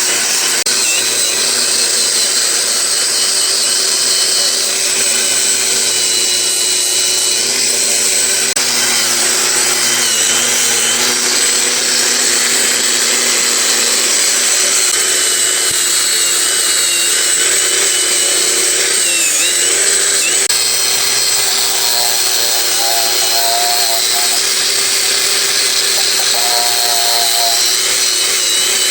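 A power tool running continuously, with a high whine that wavers a little in pitch.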